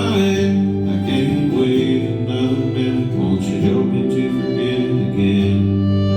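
Live acoustic country music: acoustic guitar playing, with a held melody line over it.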